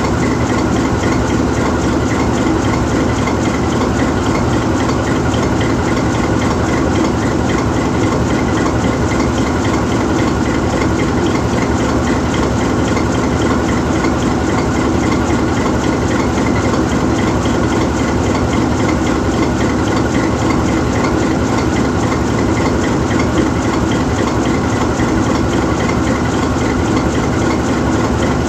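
GE U20C diesel-electric locomotive's V12 diesel engine idling steadily while the locomotive stands still.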